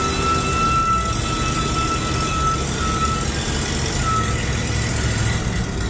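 Ford 302 small-block V8 in a 1936 Divco truck running as the truck moves, under a steady rushing hiss. A thin high whine sounds over it for about the first three seconds and briefly again about four seconds in.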